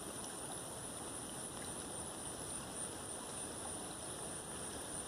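Steady outdoor ambience: an even rush of flowing stream water with a constant high-pitched insect drone over it.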